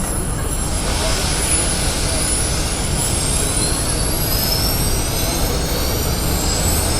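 Jet aircraft engine whine rising in pitch from about a second in, over a steady low rumble.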